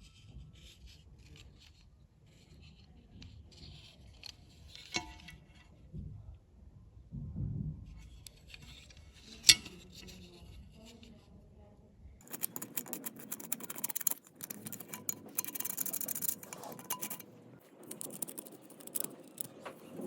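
Small hand-work on a diecast model car: light clicks and scrapes, with one sharp click about halfway through. From about twelve seconds in there is a denser run of fine scraping and clinking of small metal parts.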